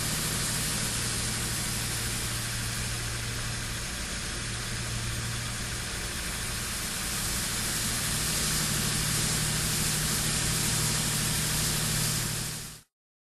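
High-pressure water-vapor jet of a VapoJet insulation cutter hissing steadily over a low machine hum while cutting acoustic duct liner. It cuts off suddenly near the end.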